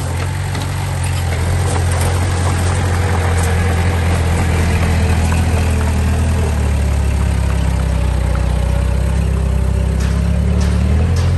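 Diesel engine of a dump truck or small bulldozer running steadily, a deep hum that shifts lower and grows stronger about six and a half seconds in.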